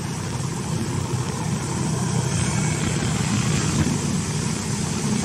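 Steady engine and road noise of a vehicle driving along a street.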